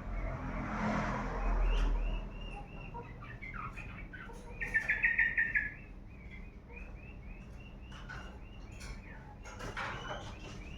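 Small birds chirping in a steady run of short repeated notes, with a louder rapid trill about halfway through. A brief noisy rush sounds in the first two seconds.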